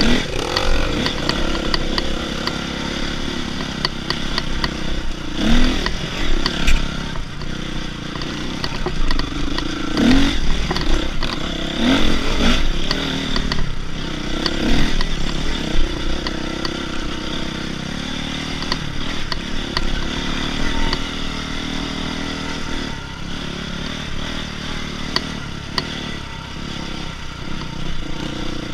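Dirt bike engine being ridden, its revs repeatedly climbing and dropping with several sharp blips of throttle, with rattles and knocks from the bike over rough ground.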